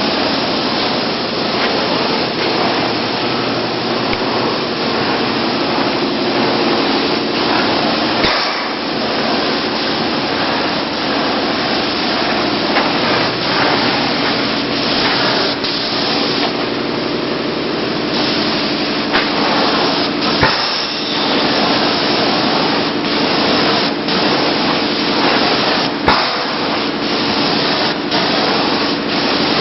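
Tornado Heaven 72.150 airless paint sprayer running: a steady hiss of paint spray over the pump's hum, with scattered sharp knocks.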